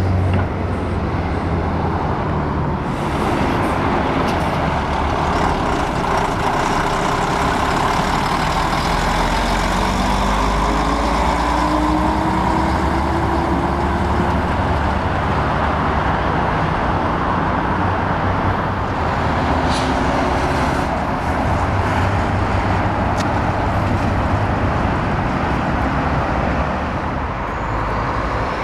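Heavy diesel trucks running as they pass, one engine note rising as it pulls away through the middle.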